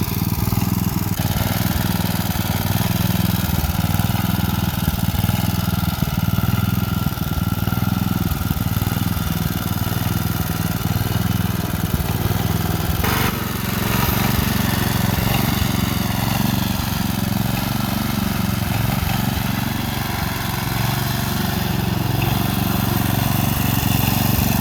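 Snapper Hi-Vac rear-engine riding mower's engine running steadily under way, with one brief knock about halfway through.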